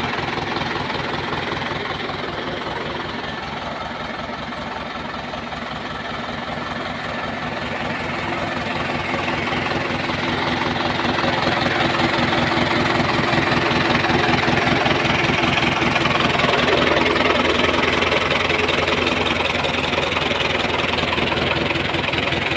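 Belarus tractor's diesel engine running with a steady, even knock of firing pulses, growing louder from about a third of the way in and then holding steady.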